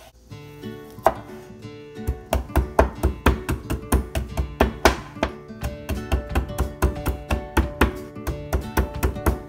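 Chef's knife chopping garlic on a wooden cutting board: a couple of single cuts, then from about two seconds in fast, even chopping at about five strokes a second. Acoustic guitar music plays underneath.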